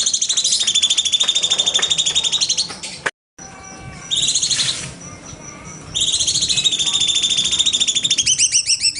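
Cucak cungkok songbird singing fast, high trills of rapidly repeated notes. The song breaks off for a moment just after three seconds, gives a short burst at about four seconds, and a long trill resumes at about six seconds.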